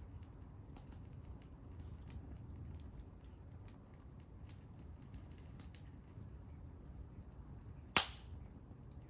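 Wood fire crackling, with faint scattered pops over a low steady rumble, and one loud sharp pop about eight seconds in.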